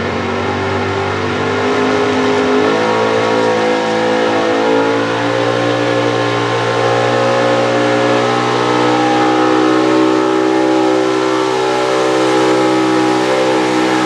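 Pro Stock 4x4 pulling truck's engine running at high revs under full load while pulling the sled, stepping up in pitch about three seconds in and then holding high and steady.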